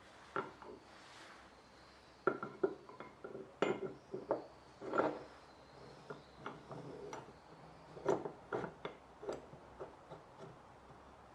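Irregular light taps and clinks, metal against wood and metal, as a hammer sets and adjusts the blade of a Japanese plane (kanna); a single tap comes early, then clusters of taps begin about two seconds in.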